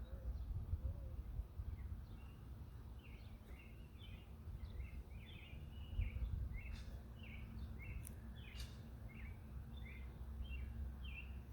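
A small bird chirping repeatedly, short high notes about two a second, over a low outdoor rumble.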